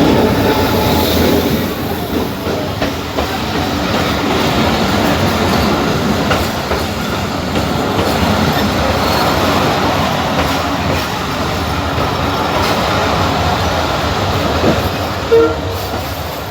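Abu Qir line passenger train running along the track, heard from inside the carriage: a steady rumble of wheels on rail with clickety-clack. A short tone sounds briefly near the end.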